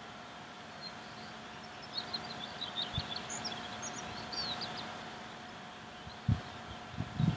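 Outdoor ambience of small birds chirping, a quick series of high calls from about two seconds in, over a faint steady hum. A couple of low thumps come near the end.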